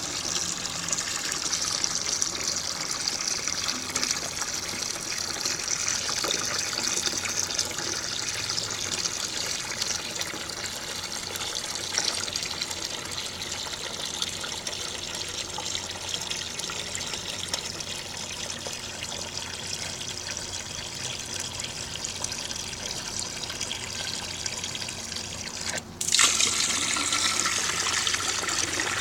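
Water running and trickling into the tank and bowl of a 1939 Standard Cadet toilet as it refills after a flush. Near the end the sound breaks off for an instant and comes back louder.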